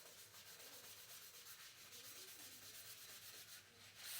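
Faint, quick repeated rubbing strokes of a rocket part being wiped clean with acetone to remove contaminants before epoxy.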